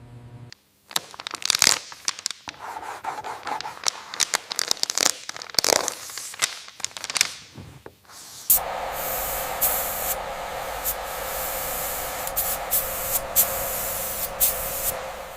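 Irregular crackling and clicking for about eight seconds, then a steady hiss of compressed air and paint mist from an HVLP spray gun spraying a coat of finish.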